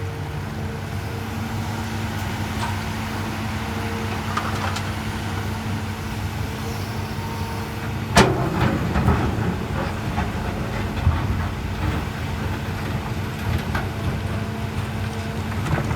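Hydraulic excavator (PC200) engine running steadily at work, with one sharp metallic bang about eight seconds in and a few lighter knocks after it.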